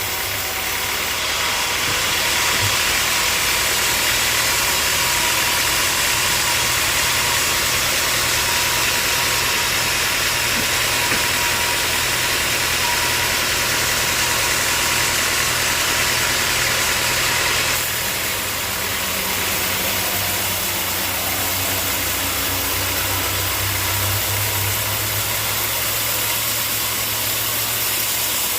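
Band sawmill running steadily with a constant engine hum and a hiss of the machinery. The hiss drops a little about eighteen seconds in.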